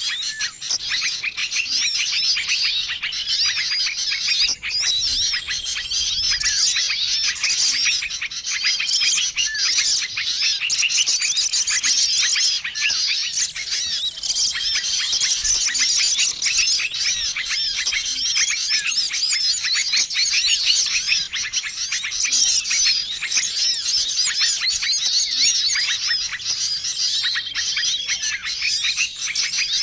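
A dense, noisy chorus of many small songbirds chirping and twittering over one another without a break, a combined bird-lure call for small wild birds. A short, level whistle recurs every few seconds through it.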